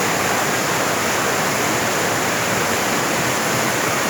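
Waterfall: an even, steady rush of falling water.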